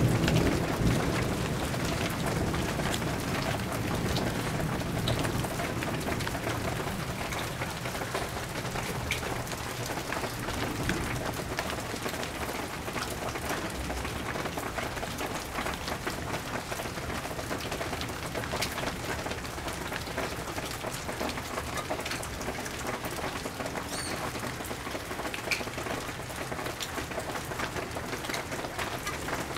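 Steady rain falling, with the low rumble of a thunderclap dying away over the first few seconds.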